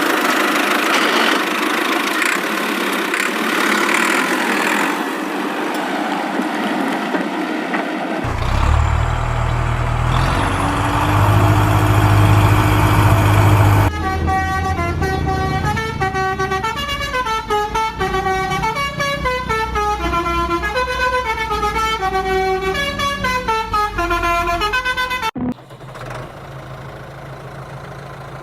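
Cartoon vehicle sound effects: about eight seconds of rough noisy rumble, then a long held horn blast, then a tune of short stepping notes like a musical vehicle horn, ending in a quieter low steady engine hum.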